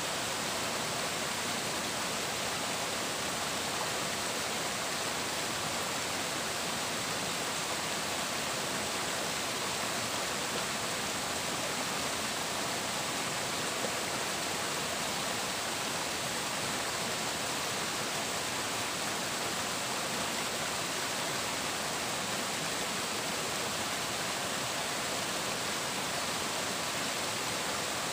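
Flowing water: an even, steady rushing with no breaks or changes.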